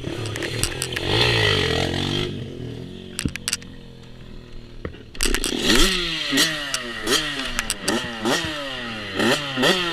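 Small off-road vehicle engine running for the first two seconds, then fading. From about five seconds in it is revved again and again, its pitch climbing and dropping about twice a second.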